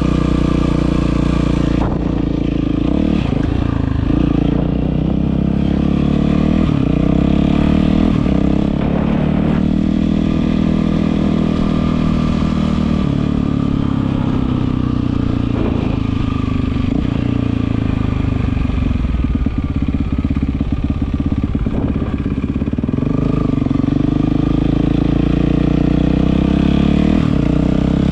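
Yamaha WR450F's single-cylinder four-stroke engine running through an Akrapovič exhaust, its engine speed rising and falling gently a few times, with occasional clicks.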